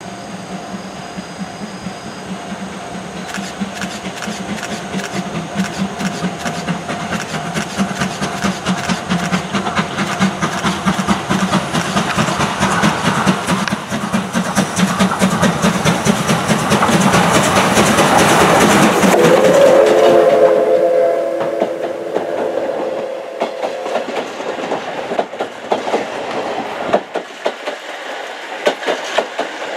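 Oigawa Railway steam train dressed as Thomas the Tank Engine running past, its wheels clattering over the rail joints and growing louder as it nears. About two-thirds of the way in, a chord-like whistle sounds for several seconds, and the wheel clatter carries on as the carriages go by.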